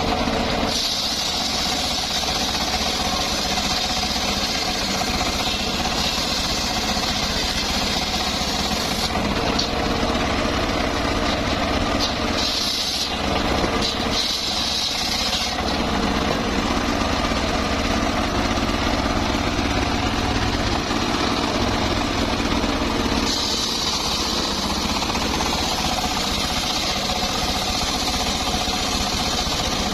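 Homemade engine-driven circular sawmill running steadily while ripping teak. A higher hiss rises over the engine three times and drops away again, as the blade goes into and out of the wood.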